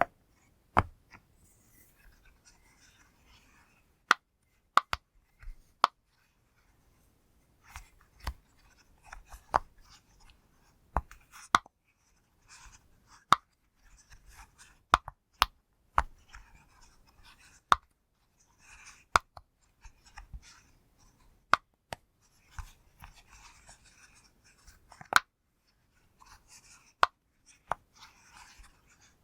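Pop-it fidget toy being pressed by fingers: sharp single pops at an uneven pace of roughly one a second, with soft rubbing and handling sounds between them.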